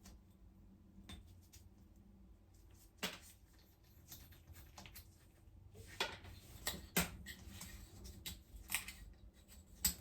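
Irregular light clicks and clinks of small metal parts and hand tools being handled and set down, with the sharpest knocks about three seconds in and a cluster between six and seven seconds.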